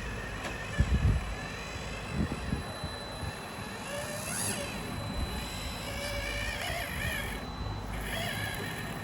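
Small electric motors of RC model cars whining, the pitch wavering up and down as they drive. There are a few low knocks about one and two seconds in.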